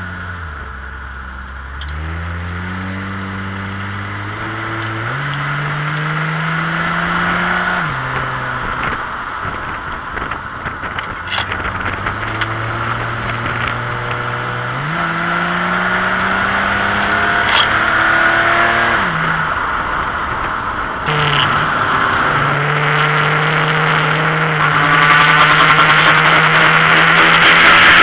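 BMW E28 528e's straight-six engine heard from inside the stripped race car's cabin, driven hard. Its note climbs steadily under throttle and drops abruptly at gear changes, with a few sharp rattles. Wind and road noise build up toward the end.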